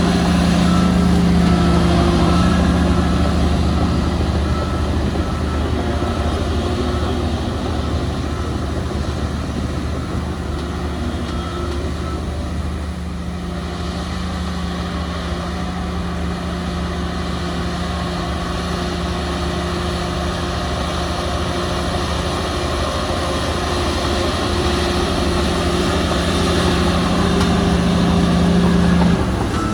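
Heavy diesel engine of earthmoving machinery running under load, steady with a deep rumble. It eases off briefly partway through and builds again toward the end.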